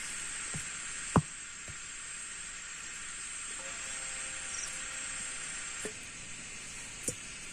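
Steady hiss of rain falling, with a sharp knock about a second in and a softer knock near the end.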